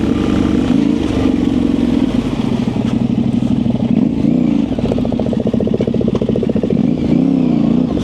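Yamaha Ténéré 700's parallel-twin engine running off-road under changing throttle, its revs rising and falling several times, with some clatter from the bike.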